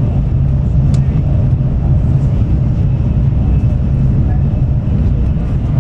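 Steady low rumble of an N700S series Shinkansen's running noise, heard inside the passenger cabin, with a faint click about a second in.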